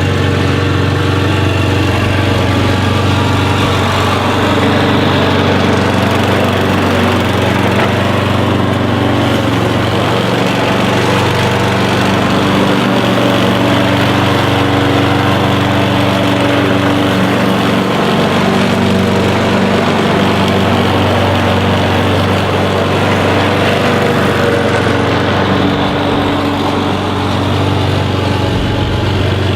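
An engine running steadily at an even, idle-like speed with no revving, played back from a device's speaker with low audio quality.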